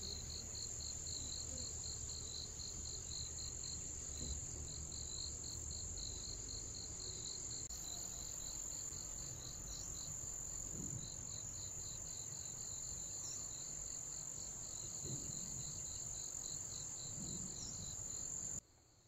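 Insects calling in chorus: a steady high-pitched buzz over an evenly pulsed chirping, about three chirps a second. The sound cuts off sharply near the end.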